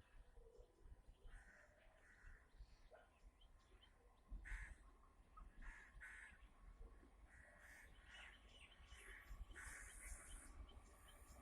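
Faint crows cawing, a series of short calls scattered through, over a low distant background rumble.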